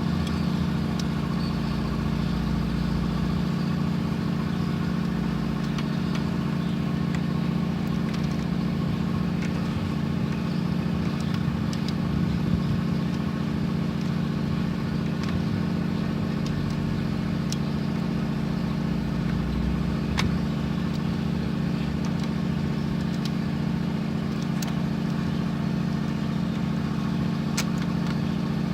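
Mitsubishi Strada L200 pickup engine idling steadily, with a few faint ticks now and then.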